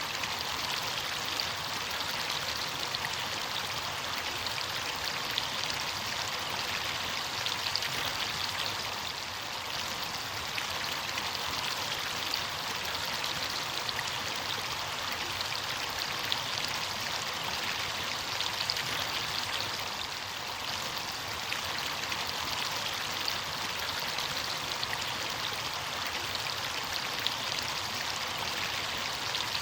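Running water of a stream, flowing steadily as an even rush with many small splashes throughout.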